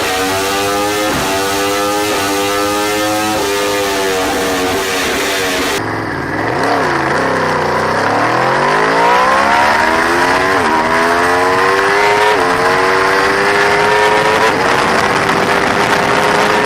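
Aprilia RSV4's 65° V4 revving hard through the gears. Its pitch climbs, then drops at each upshift. About six seconds in, a different pass comes in with throttle blips on a downshift, then the engine climbs again through two more upshifts.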